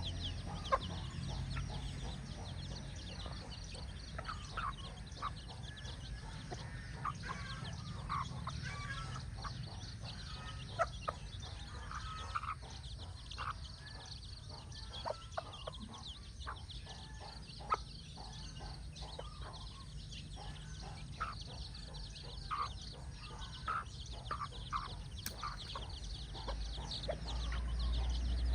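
Mother hen clucking in short, scattered calls while her chicks peep, over a steady low rumble that grows louder near the end.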